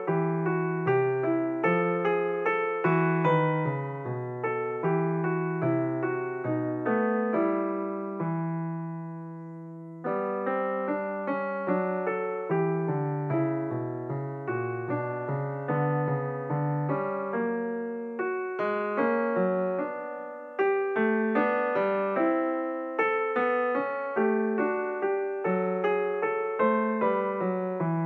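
Solo piano music playing flowing broken chords, with a chord left to die away about eight seconds in before the playing resumes, and another short break near twenty seconds.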